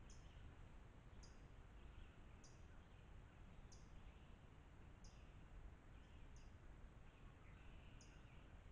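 Faint woodland ambience: a bird gives a short, high chirp about once every second and a quarter, over a steady low hiss.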